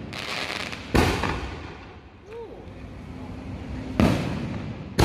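Aerial fireworks bursting in the sky: two sharp bangs, about a second in and about four seconds in, each followed by a fading rumble.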